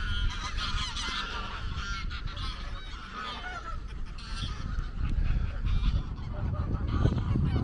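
A large flock of geese honking, many noisy calls overlapping at once. A low rumble grows louder in the second half.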